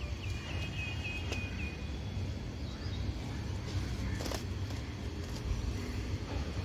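A bird calling outdoors with a quick run of about six short, high, repeated notes over the first two seconds, over a steady low rumble, with a couple of sharp knocks later on.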